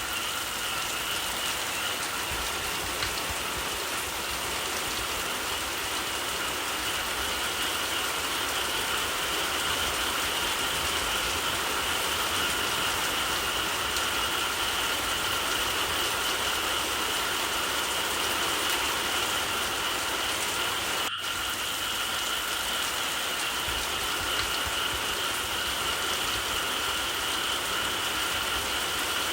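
Steady rain with a continuous chorus of frogs calling at two even pitches, one higher than the other. The sound drops out for an instant about two-thirds of the way through.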